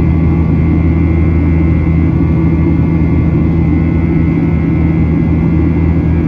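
Steady cabin drone of a Boeing 737-800 in flight: the CFM56-7B turbofan engines and airflow making a loud, even roar with a faint steady whine on top.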